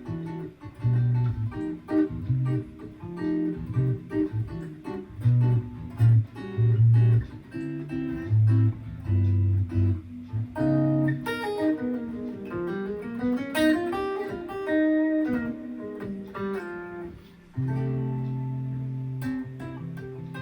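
Gibson ES-335 semi-hollow electric guitar playing a Latin-style figure: a rhythmic pattern of bass notes and chords, then quick single-note runs up and down the neck, and near the end a held, ringing chord.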